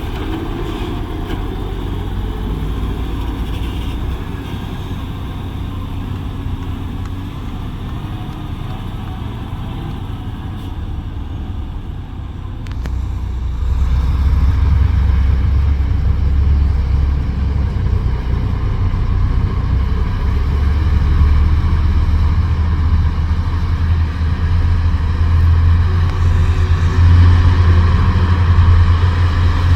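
Heavy dump truck's diesel engine running with a low rumble, growing louder about halfway through as it works harder or comes closer.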